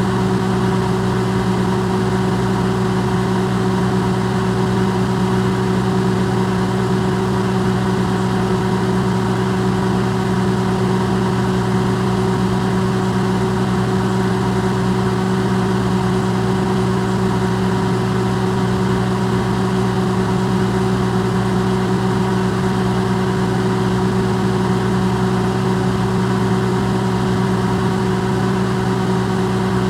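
Electrolux microwave oven running: a steady, unchanging hum with a few held tones over a soft whirring hiss, recorded amplified.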